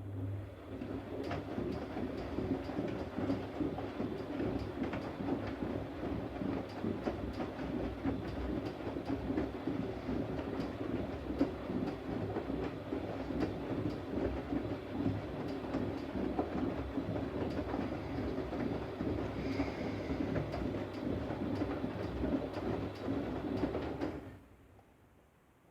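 Siemens Siwamat iQ 716 washing machine running a wash phase: the drum turns steadily with the laundry tumbling and light clicking, then stops suddenly about 24 seconds in.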